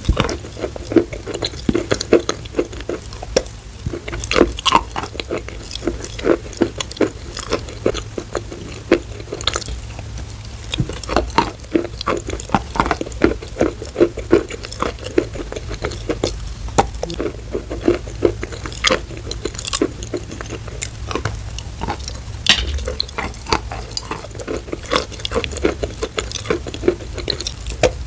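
Dense, irregular small clicks and taps of hard objects being handled, several a second.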